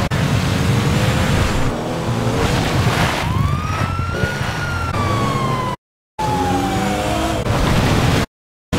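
Car engine sounds in an edited montage, with a high tone that rises and then slowly falls over a few seconds. The sound cuts off sharply twice.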